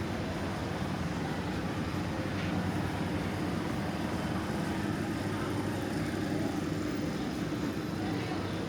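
Steady low mechanical hum with several even low tones, over a constant haze of background noise.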